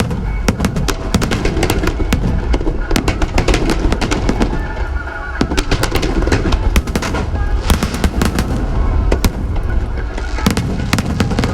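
Aerial fireworks going off in rapid succession: many sharp bangs and crackles over a continuous low rumble.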